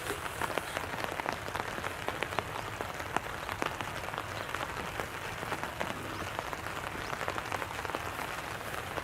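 Wood fire crackling in a fire pit: irregular sharp pops and snaps over a steady hiss.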